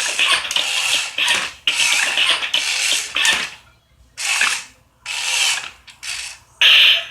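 Plastic gear mechanism of a Matchbox Rocky the Robot Truck toy whirring and ratcheting in repeated short bursts, with brief pauses between them as the motorized toy moves.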